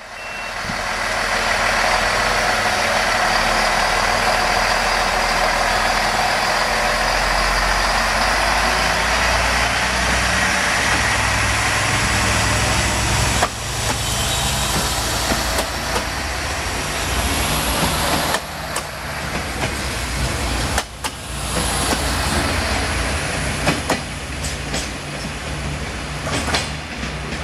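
Siemens Desiro diesel multiple unit passing close by: a loud rushing of wheels on rail over a low engine rumble. About halfway through the sound eases as the train pulls away, and wheel clacks over the rail joints come through.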